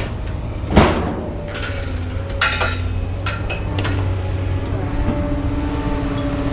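Pieces of scrap metal clanking and clinking as they are handled: one loud clank about a second in, then several lighter clinks, over the steady low hum of an engine running.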